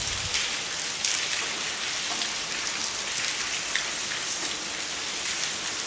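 Rain and hail falling steadily on surfaces, a constant hiss with a few scattered sharp ticks of single impacts.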